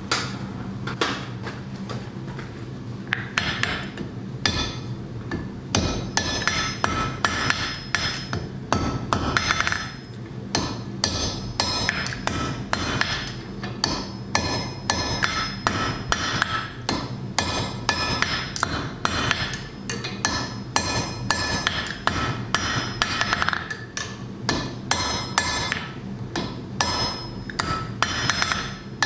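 Blacksmith's hand hammer striking a hot iron bar on an anvil, quick repeated blows with a metallic ring, in runs broken by brief pauses. This is the stage where the end of the bar is shaped into the head of a Thor's hammer pendant. A steady low hum sits beneath.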